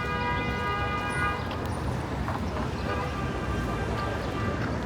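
City street ambience: a steady traffic rumble, with a held pitched sound of several steady tones that breaks off about one and a half seconds in and comes back more faintly near three seconds.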